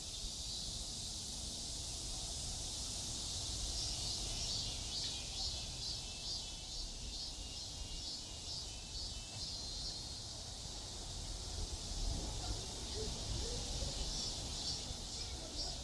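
Summer insects calling in a high, pulsing chirr, over a low rumble of distant city traffic.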